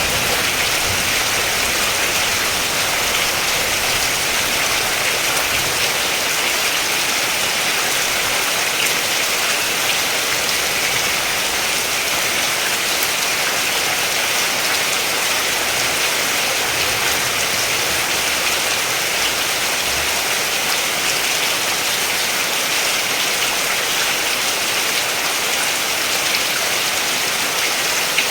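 Steady rain falling and pattering on surfaces: an even, continuous hiss with fine drop ticks.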